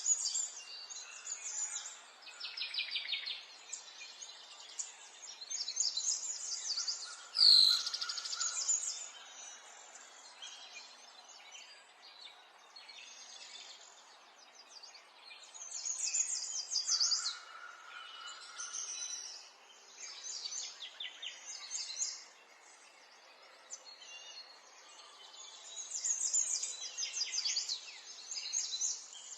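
Several songbirds singing and chirping, with bursts of fast high trills every few seconds over a light background hiss. One loud, sharp sweeping call comes about seven seconds in.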